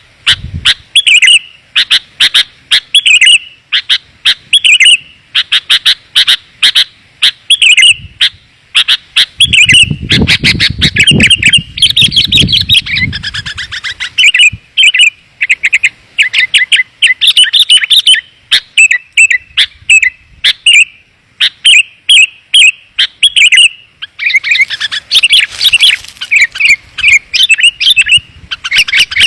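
Sooty-headed bulbuls (kutilang) calling in loud, dense runs of clear, quick chirps, phrase after phrase with hardly a pause: a lure call (pikat) for drawing wild bulbuls in. A low rumble sits under the calls for a few seconds about a third of the way through.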